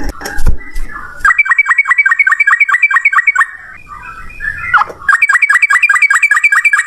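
Yellow-vented bulbul (trucukan) singing its rapid 'ropel' song: a fast run of repeated notes, about nine a second, from about a second in for two seconds, then a second run from about five seconds in. Irregular chattering calls come between the runs, with a few sharp clicks at the start.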